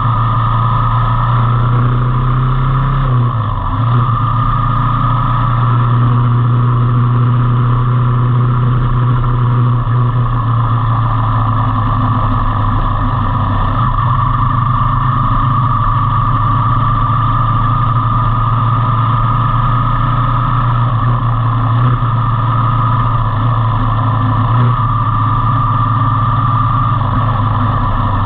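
Motorcycle engine running steadily at cruising speed, with a steady drone and only slight changes in pitch.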